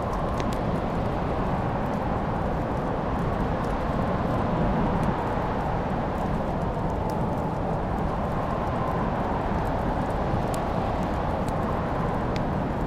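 Wood fire crackling in a fireplace: a handful of sharp, scattered pops over a steady low rushing hiss.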